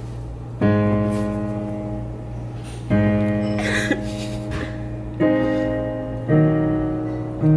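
Piano chords played slowly, five struck over the stretch, each left to ring and fade before the next, over a steady low hum.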